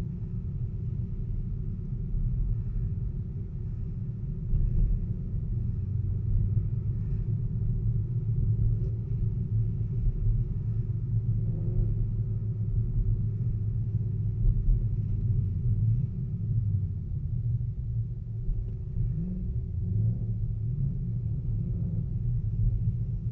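A car running and moving along: a steady low rumble of engine and road noise with a faint hum.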